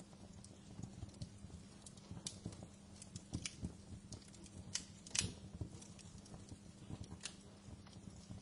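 Wood fire crackling in a fireplace: irregular snaps and pops over a low rumble, with a louder pop about five seconds in.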